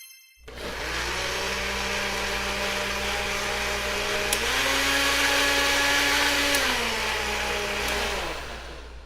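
A household appliance's electric motor runs steadily, steps up in pitch about halfway through, drops back, then winds down and stops near the end.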